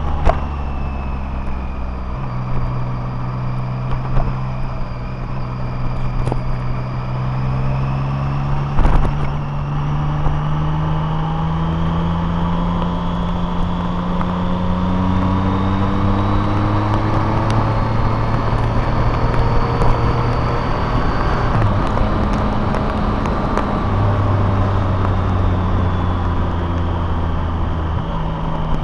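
Vehicle engine and road noise while driving. The engine note drops about two seconds in, climbs slowly for over fifteen seconds, then steps down and back a couple of times as gears change, with a few light knocks.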